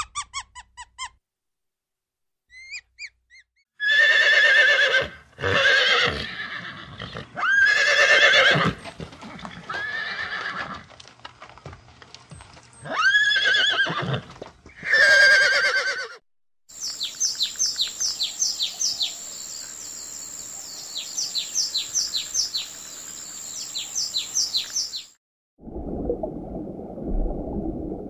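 A horse neighing several times in a row, loud whinnies that rise and fall. Before them come a few brief high squeaks from meerkats. After them come a steady high tone with rapid falling chirps, and near the end a low rumble under water.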